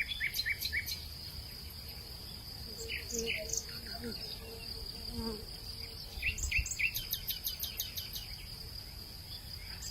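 Late-afternoon hillside ambience: a steady high-pitched drone of insects, with short chirps in quick groups of three or four coming several times, a run of rapid high ticks in the second half, and a low wind rumble.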